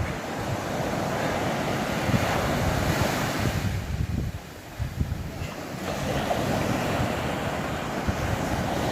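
Wind buffeting the microphone in a steady rush with low gusty rumble, easing off briefly about four seconds in before picking up again.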